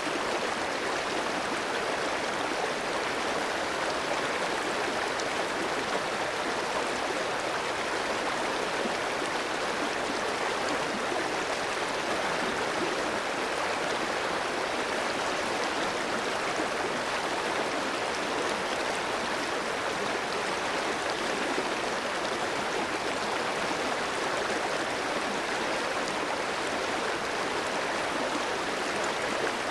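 A clear, shallow stream running steadily over rocks, a constant even rush of water.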